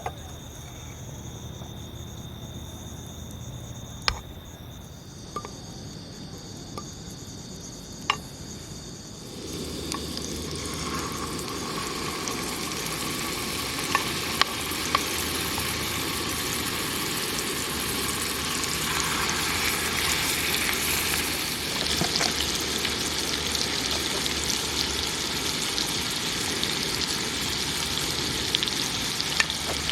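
A steady noisy hiss begins suddenly about nine seconds in and holds, with scattered light clicks. Before it there are quieter steady high tones and a few sharp clicks.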